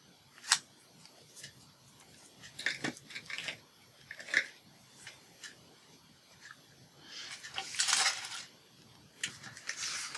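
Small crafting tools and paper handled on a desk: a few sharp clicks and taps scattered through, and a longer rustle about seven seconds in.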